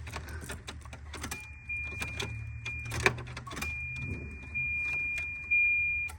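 Ignition key and key ring jangling and clicking in a 1990 Volvo 240 DL as the ignition is switched on, with a thin, steady, high-pitched whine that starts about a second in, breaks off briefly near the middle and comes back, over a low steady hum.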